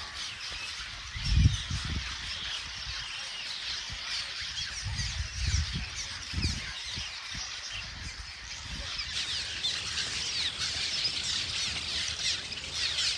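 A dense chorus of many small birds chirping continuously, growing fuller about two thirds of the way through, with a few low rumbling thumps early on and around the middle.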